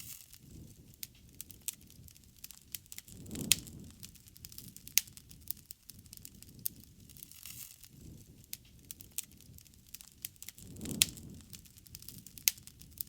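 Bonfire crackling, with sharp wood pops at irregular intervals, a few of them loud. Under the pops is a low rushing sound that swells twice, about three seconds in and again near the end.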